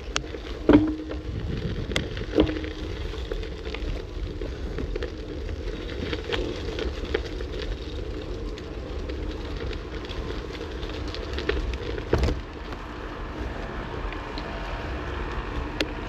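Steady wind rumble on the microphone and tyre noise from a moving electric bicycle, with a few sharp clicks and knocks, the strongest about twelve seconds in.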